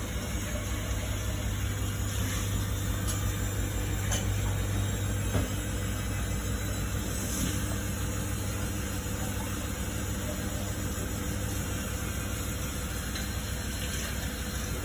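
Samsung WF1700WRW front-loading washing machine running with a steady mechanical hum.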